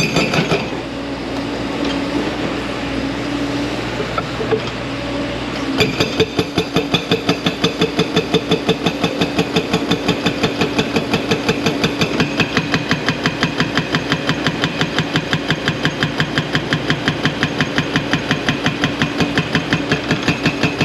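A 4,000 lb hydraulic breaker on a 55,000 lb JCB excavator hammering rock in a fast, even run of about five metallic, ringing blows a second, over the excavator's engine running. The hammering stops just after the start and picks up again about six seconds in.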